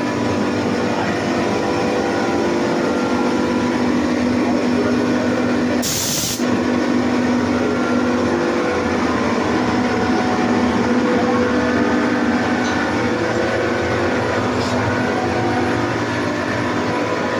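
A 20 HP, 8-bar air compressor running steadily, with a constant hum. A short, sharp hiss about six seconds in lasts about half a second.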